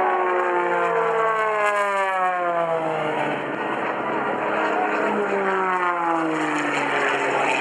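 Propeller airplane engine flying past, its pitch falling as it goes by; a second fly-past falls in pitch from about four seconds in.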